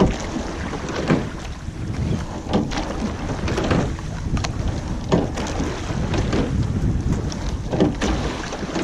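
Rowing eight under way: oars and rigging knocking at each stroke, about once every second or so, over steady wind on the microphone and water noise.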